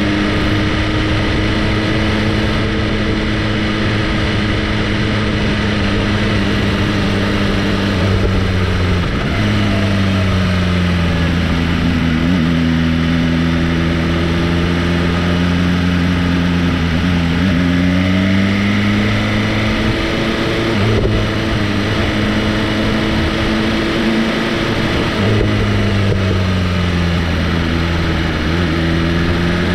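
Motorcycle engine running on the move, its pitch falling and rising slowly a few times as the revs change, over steady road and wind noise.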